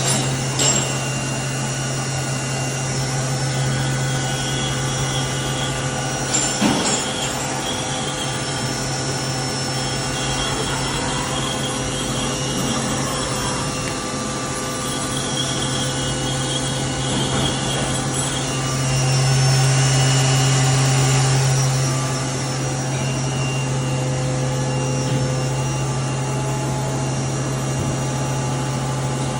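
CNC lathe running: a steady machine hum with several steady whining tones and a few short clicks, growing louder for a few seconds about two-thirds of the way through.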